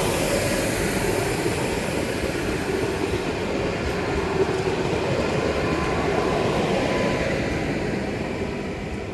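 Train passing along the platform at close range: a loud, steady rumble of wheels and cars, with a few faint steady tones on top, starting to fade near the end.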